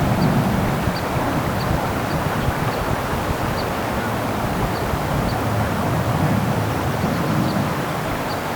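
Creek water rushing steadily, with wind rumbling on the microphone now and then. Faint short high ticks repeat about every half second.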